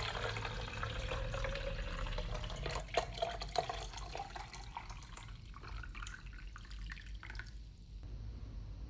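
Water running into a container, its pitch rising steadily as the container fills, with splashes and drips; the flow dies away about seven seconds in.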